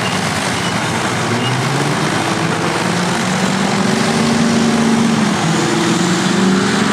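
Heavy diesel engine of a large earthmoving machine working, with a dense mechanical clatter; its note rises and grows a little louder from about halfway through.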